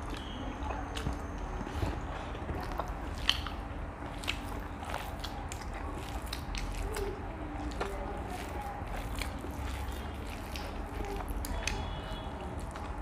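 Two people chewing and eating rice and fried fish with their hands, with wet mouth noises and lip smacks. Many small sharp clicks run through it, and two louder ones come about three and four seconds in.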